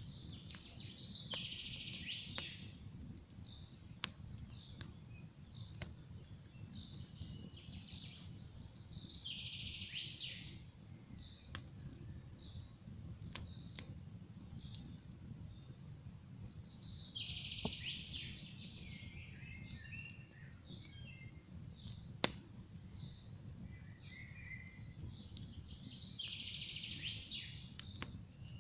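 Campfire crackling, with scattered sharp pops over a steady low rumble. A songbird sings a long phrase about every eight seconds, with short chirps in between.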